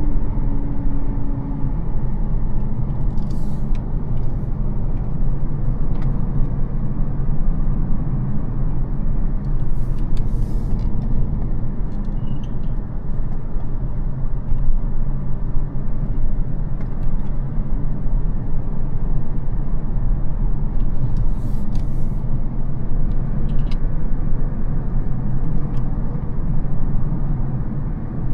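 Mercedes CL600's 5.5-litre twin-turbo V12 (M275) running steadily under way with tyre and road noise, a continuous low rumble. There are a few short hisses along the way.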